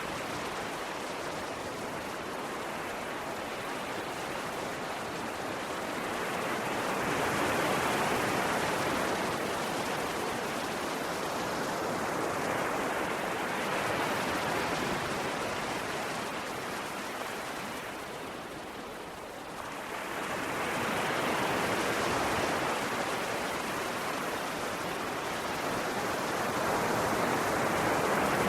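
Ocean waves washing ashore in a continuous rush that swells and eases every several seconds.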